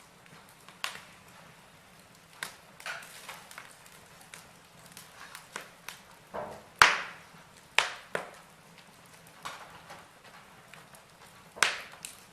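Wood fire burning in a fireplace, logs crackling with irregular sharp pops and snaps over a faint low hiss; the loudest pops come about seven seconds in and near the end.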